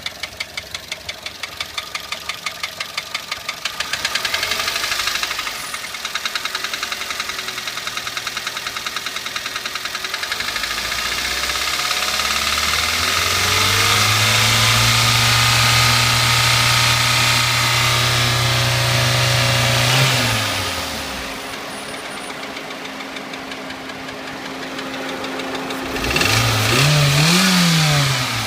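Toyota 1SZ-FE 1.0-litre four-cylinder engine running with a regular knock at idle, revved up and held for several seconds in the middle, dropping back to idle, with a short blip of the throttle near the end. The knock is, in the owner's diagnosis, piston slap: a seized piston pin making the piston skirt strike the cylinder wall, with the bearings and valve clearances found good.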